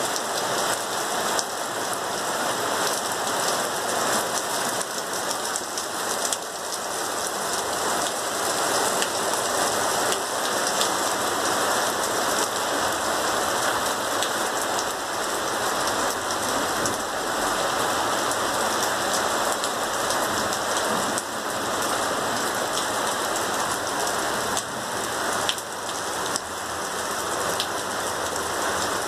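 Heavy rain falling steadily on paving stones and a wet street, an even hiss with scattered drop ticks.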